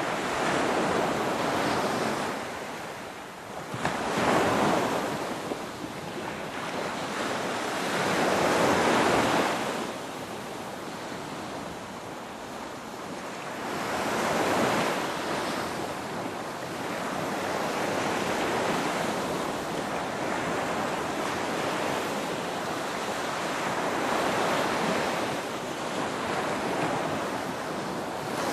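Ocean waves breaking on the shore, the surf swelling and fading about every five seconds.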